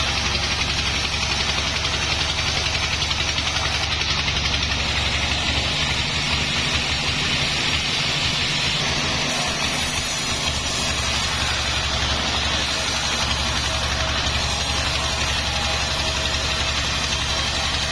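Sawmill machinery running steadily, a low engine drone with a dense hiss above it. The drone thins briefly about halfway through.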